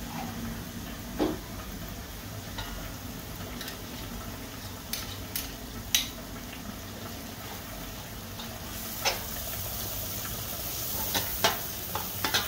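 Curry paste of onion, garlic and ground spices frying in oil in a wide pan: a steady sizzle that grows brighter about two-thirds of the way through. A metal spoon clicks and scrapes against the pan several times as tomato paste is added and stirred in, the clicks closer together near the end.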